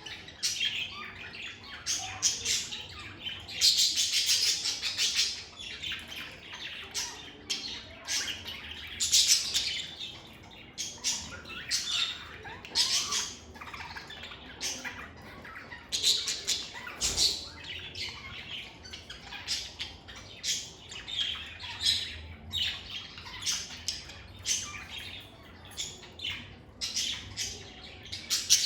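Lovebirds chirping and squawking continuously, a dense run of short, shrill calls with frequent louder bursts.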